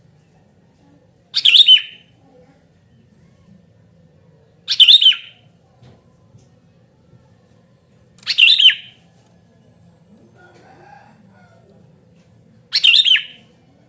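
Sooty-headed bulbul (kutilang) calling: four short, loud calls spaced about three to four seconds apart.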